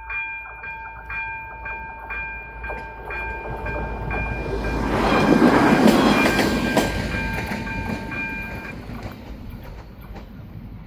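Level-crossing warning bell, an AŽD ZV-02, striking about twice a second while a train passes over the crossing. The train's rumble swells to its loudest about halfway through and then fades. The bell stops a little under nine seconds in as the warning ends.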